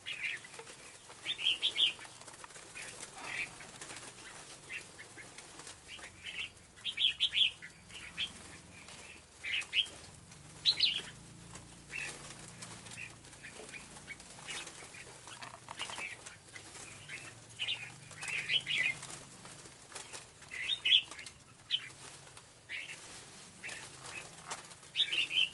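Scarlet-backed flowerpecker calling: clusters of sharp, high chips repeated every one to two seconds.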